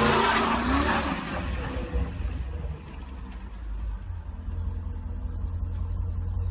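Range Rover Sport's engine revving hard with its wheels spinning in snow, the pitch falling away and the spray noise dying out over the first second or two. After that only a steady low rumble remains as the SUV rolls slowly.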